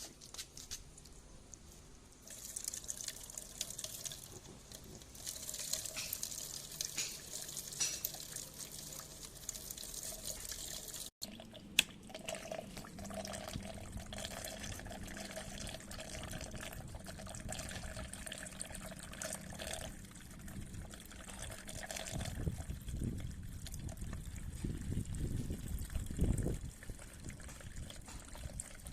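Diesel exhaust fluid (DEF) being poured into a vehicle's DEF tank: an uneven trickle and splash of liquid. The sound cuts out briefly about a third of the way in, and a single sharp click follows.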